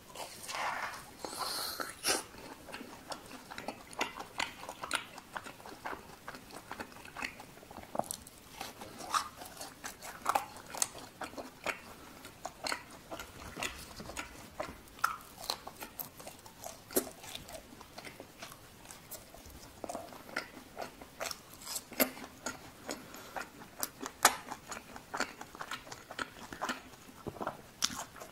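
Close-miked eating: a bite into a fried cheese ball dipped in sauce, then continuous chewing with frequent short, sharp mouth clicks and soft wet smacks.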